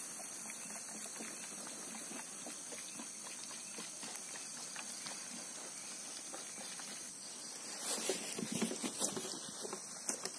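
Footsteps crunching and tapping on forest floor litter, scattered light steps with a cluster of louder ones near the end, over a steady high-pitched hiss.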